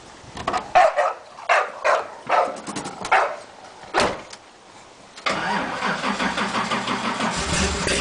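Drag-built Camaro's 598-cubic-inch big-block V8 being started: it cranks over in a string of uneven bursts for about four seconds, catches about five seconds in, and then runs steadily and loudly.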